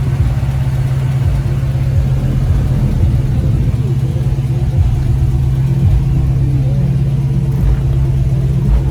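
Nearby vehicle engine running at a steady idle, a constant low drone.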